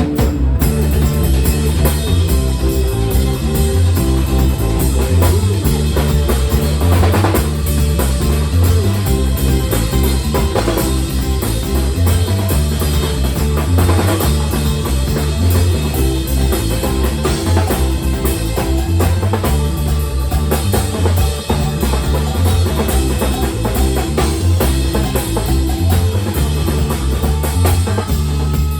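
Band music with a drum kit, bass drum and guitar playing steadily, in a rock style.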